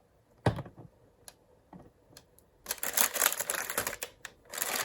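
Handling of an old cordless phone's box and packaging: a single knock about half a second in, a few light clicks, then rapid rustling and clattering through the second half.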